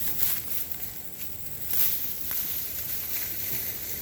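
Rustling and brushing of leaves and undergrowth as people move about in a bamboo grove, swelling twice.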